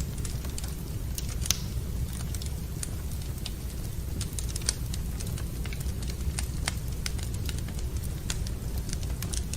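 Wood fire in a fireplace crackling, with scattered sharp pops, the loudest about one and a half seconds in and again near five seconds, over a steady low rumble.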